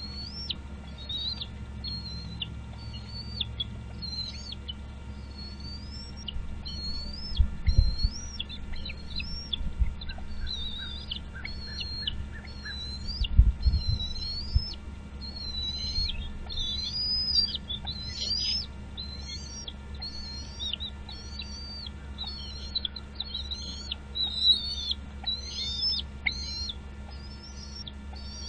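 A bird repeating short, high, slurred whistled calls, each rising and falling, about one a second without a break. Over them sits a steady low hum, with a couple of low thumps about 8 and 13 seconds in.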